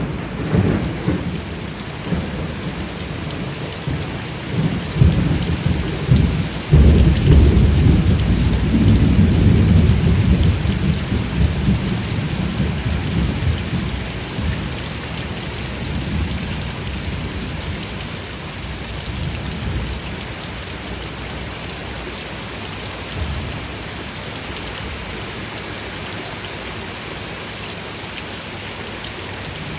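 Steady heavy rain with thunder: a low rumble at the start, then a longer rolling peal of thunder about seven seconds in that slowly fades, leaving the rain alone in the second half.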